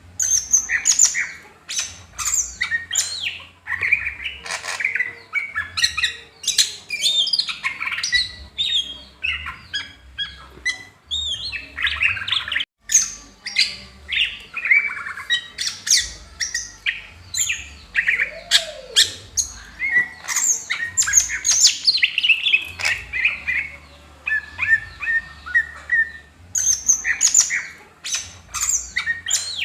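Green leafbird (cucak hijau) singing a long, rapid, varied song of sharp chirps, trills and whistled notes, with hardly a pause apart from a brief break about 13 seconds in.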